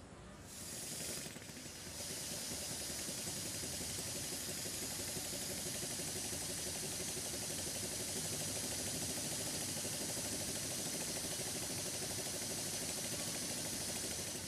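Model double-acting slide valve mill steam engine running on compressed air: a steady hiss of air through the engine, coming up about half a second in and holding steady from about two seconds in.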